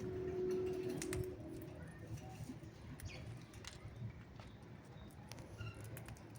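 Birds calling: a low held note in the first second or so, then scattered short chirps and clicks.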